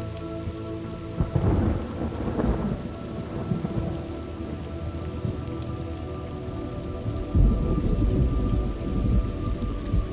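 Steady rain falling with two rolls of thunder. A sudden crack about a second in rumbles on for a couple of seconds, then a deeper, longer rumble starts about seven seconds in.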